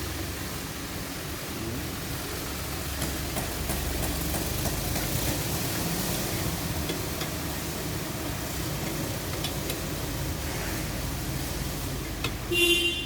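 Steady hissing background noise with a low hum, typical of a busy auto repair shop, and a short high-pitched squeak near the end.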